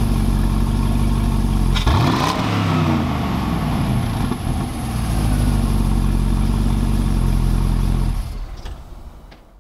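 2005 Pontiac GTO's 6.0-litre V8 idling, blipped once about two seconds in, its pitch rising quickly and settling back to idle. The sound fades out near the end.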